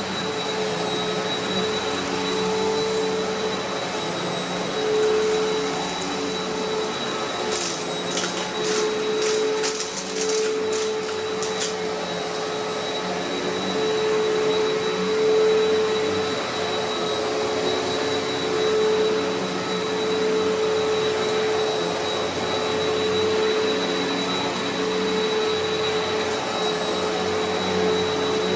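Eureka Altima upright vacuum cleaner running steadily over long-unvacuumed carpet, with a steady motor whine. For a few seconds near the middle, a burst of sharp crackles comes through as grit and debris are sucked up.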